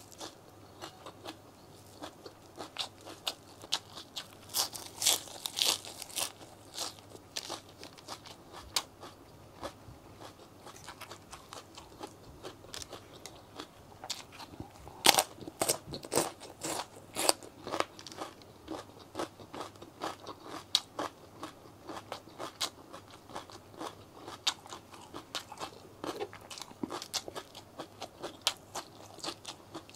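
Close-miked crunching and chewing of raw vegetables (lettuce, cucumber and bell pepper) bitten and chewed by mouth. The crisp crackling runs on throughout, loudest about five seconds in and again around fifteen to eighteen seconds in.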